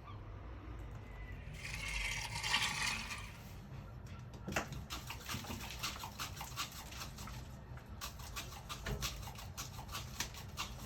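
A gull pecking and eating food, heard as rapid, irregular sharp clicks of the beak from about halfway through. Before that, about two seconds in, comes a short hissing, rustling noise.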